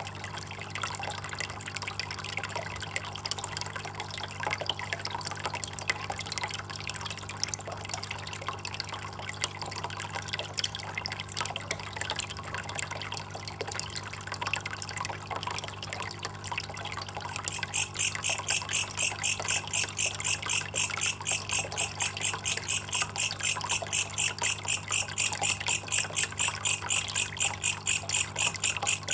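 Water trickling and dripping in a steady splashy patter. About two-thirds of the way in, an evenly repeated chirping call starts over it, pulsing several times a second at a high pitch and continuing to the end.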